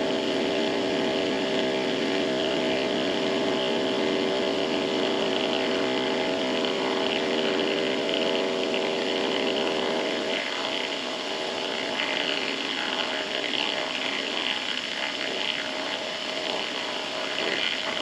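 Benchtop machine tool motor running while taking a slow, light finishing cut in aluminum, a steady hum with cutting hiss on top. About halfway through the hum drops away and a slightly quieter, rougher cutting noise carries on.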